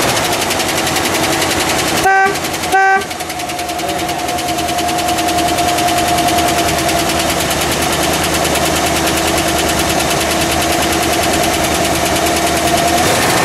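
1957 Cadillac Eldorado Biarritz's 365 cubic inch V8 with dual four-barrel carburetors, running at a fast idle just after starting, with rapid, even exhaust pulses. About two seconds in, the car's dual horns give two short toots.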